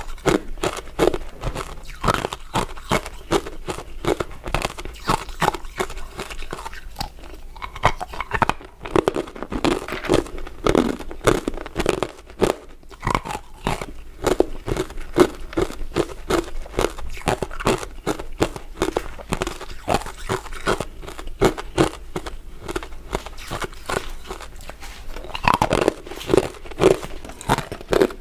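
Close-up crunching of crisp, icy crystal dessert pieces being bitten and chewed, a dense run of irregular crackles and crunches throughout.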